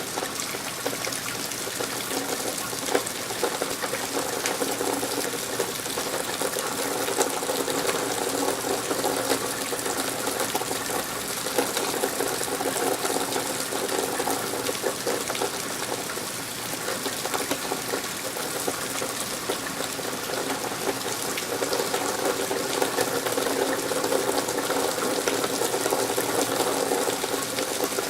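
Steady rain falling, with water running and splashing.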